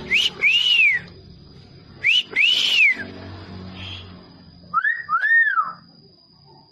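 A pet talking bird whistling three times, each a short upward note followed by a longer whistle that rises and falls; the third is lower in pitch.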